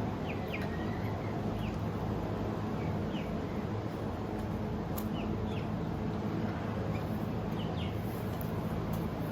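Small birds chirping: scattered short, high chirps over a steady low hum, with a single sharp click about five seconds in.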